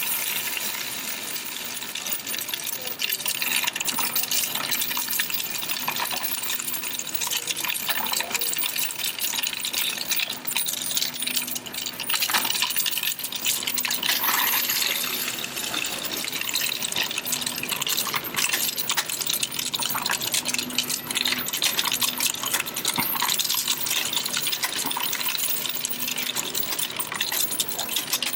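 Loose coins being poured into a coin-counting machine and rattling through it in a continuous stream of clinks, over the machine's faint steady hum.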